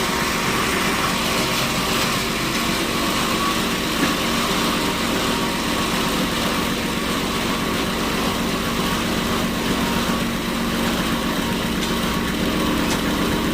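Sawmill machinery running steadily at a constant pitch, with one brief knock about four seconds in.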